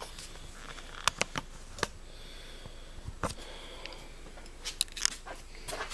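Scattered clicks and rustling handling noises: a few sharp clicks about a second in, another around the middle, and a quick cluster near the end.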